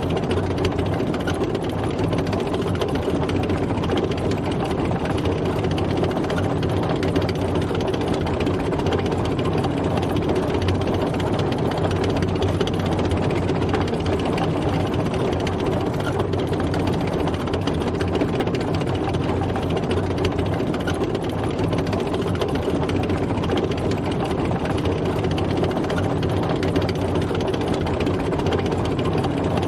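Tank driving, its heavy engine running at a steady pitch and level.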